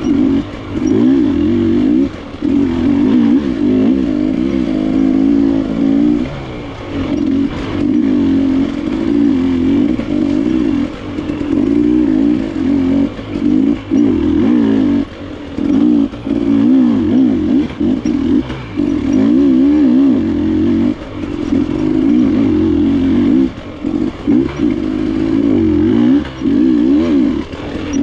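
KTM enduro dirt bike engine revving up and down under constant throttle changes, its note wavering and cutting off briefly every second or two as the throttle is rolled off and back on.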